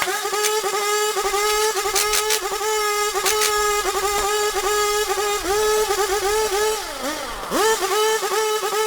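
A motor running at a high, steady pitch, with a few sharp clicks; about seven seconds in its pitch sags, as if under load, then rises quickly back to speed.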